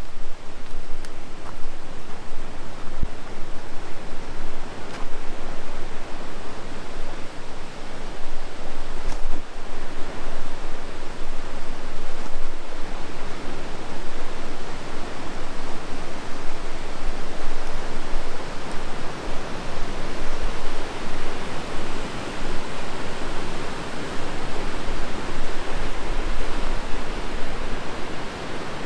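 Rushing white water of a river or waterfall, a steady loud hiss of falling and churning water that grows a little stronger in the second half.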